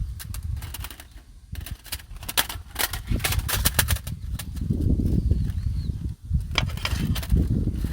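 Wind rumbling on the microphone, with dense clusters of sharp crackling clicks, the biggest run from about a second and a half in to about four and a half seconds, another shorter one near the end.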